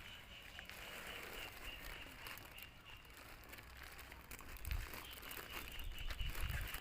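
Faint rustling and crackling with a steady thin high whine, and a few low thumps near the end.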